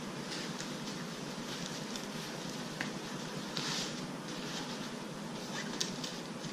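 Soft rustling and handling of fabric as a fitted sheet is stretched over a co-sleeper bassinet mattress, with a couple of faint clicks, over steady room hiss.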